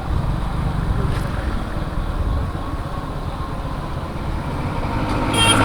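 Motorcycle on the move: a steady rumble of engine, tyres and wind buffeting the microphone. A short high-pitched tone sounds just before the end.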